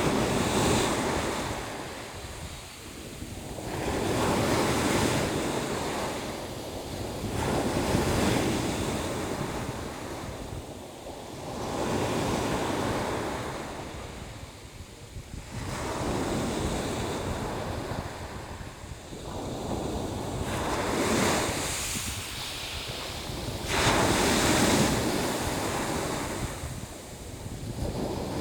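Sea waves breaking and washing in, each surge swelling and fading every three to four seconds over a steady low rumble, with wind buffeting the microphone.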